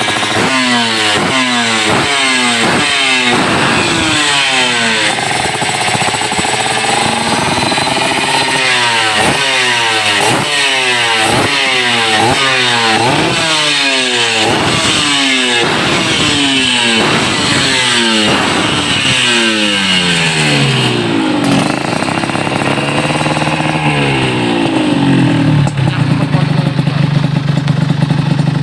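Suzuki RGR150 two-stroke single-cylinder engine with an Eighty Racing aftermarket exhaust, revved in quick blips one after another, its pitch rising and falling with each. Near the end it settles back to a steady idle.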